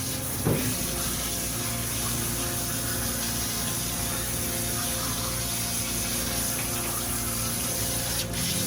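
Water running steadily, as during a bath, with a steady pump-like hum underneath. A short knock about half a second in.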